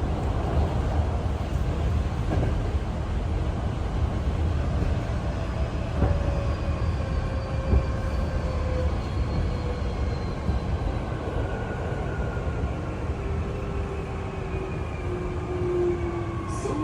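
Hankyu Kyoto Line electric train heard from inside the car, running with a steady rumble from the wheels and track. Over it the traction motors whine in several thin tones that slowly fall in pitch as the train slows on its approach to the station.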